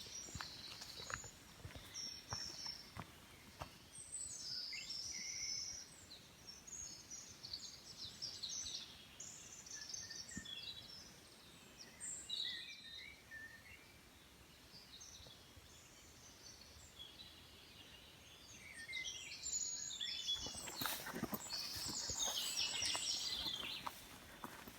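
Small songbirds chirping and singing, many short high calls and trills overlapping. From about 20 seconds in, a louder rustling noise with clicks joins them.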